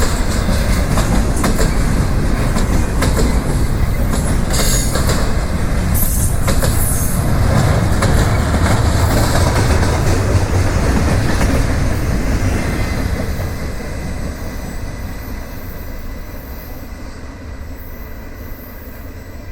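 Freight train cars rolling past, wheels clicking over the rails, with short high wheel squeals about five to seven seconds in. The sound fades steadily over the last third as the train moves away.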